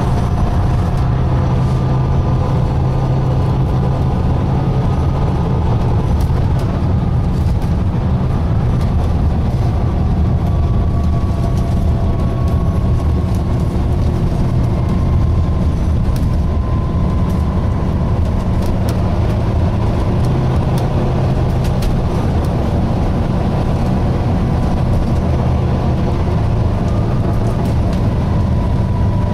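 Volvo B9TL double-decker bus under way, heard from inside the saloon: a steady low engine drone with faint whining tones that drift slowly up and down in pitch, and scattered light rattles.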